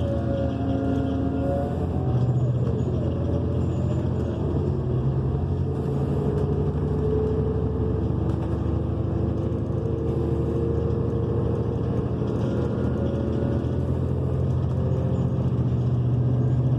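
Cabin sound of a New Flyer XN40 city bus under way, its Cummins Westport ISL G natural-gas engine and Allison B400R automatic transmission running. The engine pitch drops sharply about two and a half seconds in, then climbs slowly as the bus pulls.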